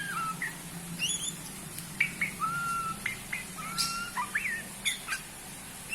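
Songbird singing a varied song of whistled notes: quick rising and falling slurs, level held whistles and sharp high chirps, over a low steady hum.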